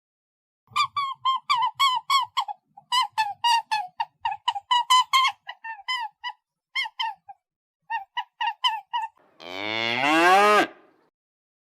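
A rapid series of short, high honking calls, about four or five a second with brief pauses. Near the end comes one long cow moo that rises steeply in pitch.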